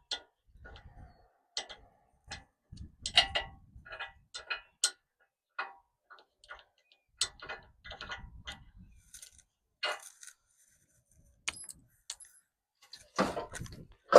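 Hand tools and metal bolt hardware clinking and clanking in irregular, scattered knocks and ticks, with a heavier clunk near the end.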